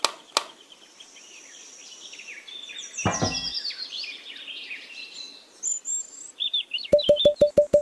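Birds chirping and twittering, with two sharp clicks at the start, a short low buzzy sound about three seconds in, and a quick run of about eight clicks near the end.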